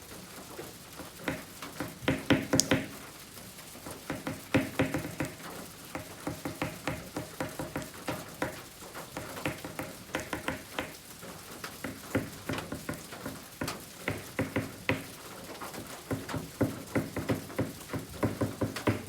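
Oil pastel sticks tapping and scraping on kraft paper in quick, short, irregular strokes, several a second, with louder clusters of taps now and then.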